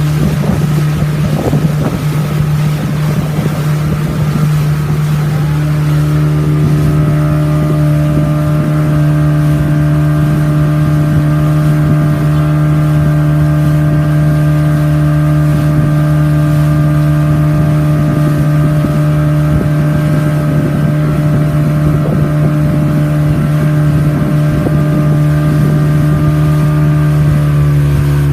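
Motorboat engine running steadily at cruising speed, a constant hum with a higher-pitched tone joining about six seconds in, over wind and water noise.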